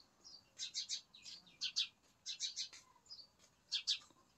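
Small birds chirping in quick high-pitched runs, four short bursts about a second apart.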